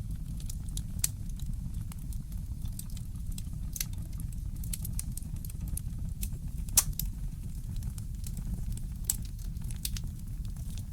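Wood fire crackling in a fireplace: irregular sharp pops and ticks, the loudest about seven seconds in, over a steady low rumble.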